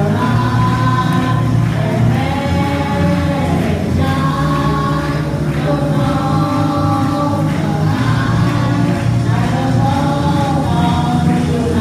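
Music: a choir of voices singing long held notes over a full, steady accompaniment.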